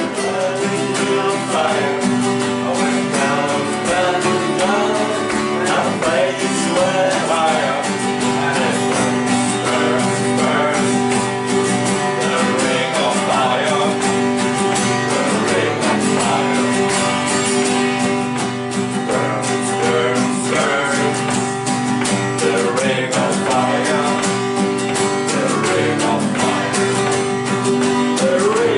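Acoustic guitar music: guitars strumming chords in a steady accompaniment, with a melody line bending over them.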